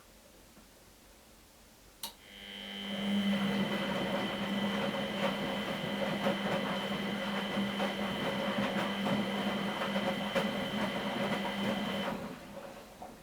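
Miele Professional WS 5426 washing machine: a click about two seconds in, then the motor turns the drum for about ten seconds with a steady hum and whine over sloshing wash noise, and stops near the end.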